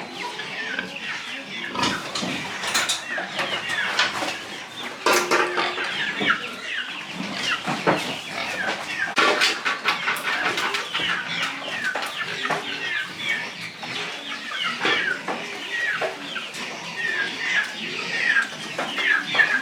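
Farm animals making many short, overlapping calls without a break, with a few sharp knocks among them.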